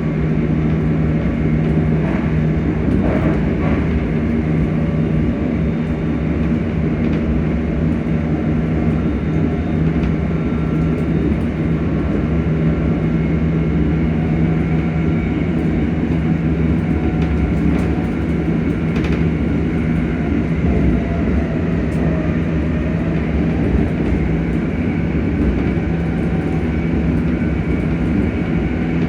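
Traction motors of a ScotRail Class 385 electric multiple unit humming steadily with the train's running noise, the pitch holding level at a constant speed.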